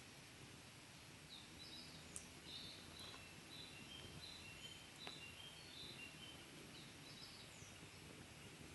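Wood fire burning quietly, with a few faint sharp pops about two, three and five seconds in, while birds chirp repeatedly with short high notes.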